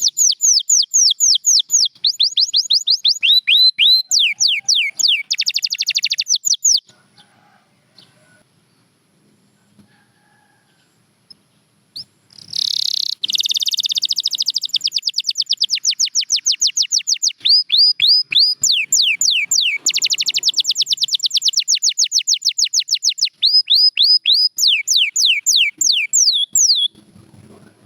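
Domestic canary singing: two long song phrases made of rapid runs of repeated down-sweeping high notes, the note type changing from run to run, with a pause of about six seconds between the phrases.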